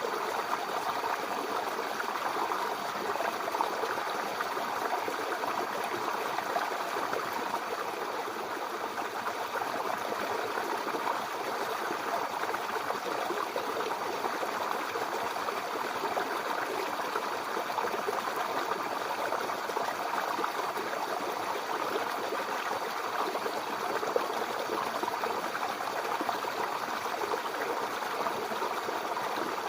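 A babbling brook: shallow water running and splashing over stones, steady and continuous.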